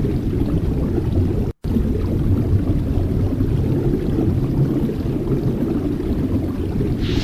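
A loud, steady low rumbling noise that cuts out completely for a moment about a second and a half in.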